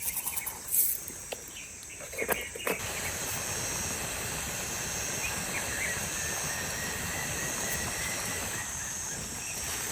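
Evening insects, crickets among them, chirping steadily in the forest, with a few knocks in the first seconds. From about three seconds in, a steady rushing hiss sits under them.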